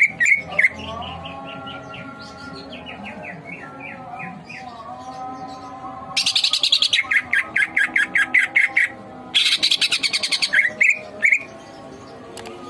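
Cucak ijo (green leafbird) singing vigorously. A string of short rising chirps comes first, then two loud, fast rattling trills, one starting about six seconds in and the other about nine seconds in.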